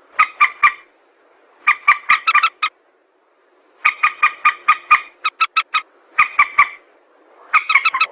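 Recorded call of a mandar (a rail), played as a bird lure: rapid runs of short clipped notes in bursts of about half a second to a second, repeated every second or two.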